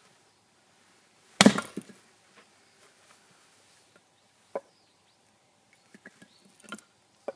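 Firewood being split: one loud chop about a second and a half in, then a few lighter knocks of wood later on.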